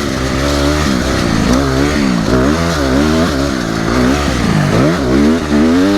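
Honda CRF250R's single-cylinder four-stroke engine being ridden hard through sand, its revs rising and falling several times as the throttle opens and closes.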